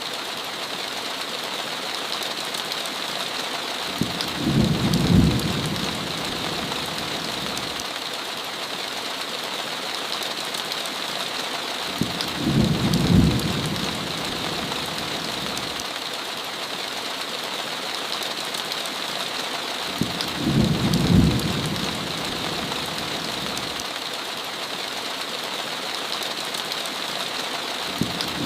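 Heavy rain falling in a steady hiss, with a short low rumble of thunder about every eight seconds, three times, each rumble alike.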